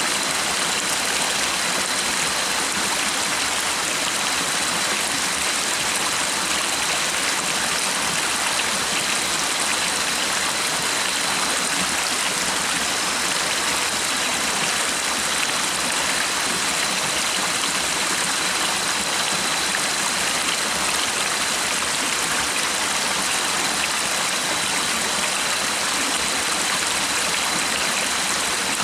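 Stream water running and babbling in a steady, even rush.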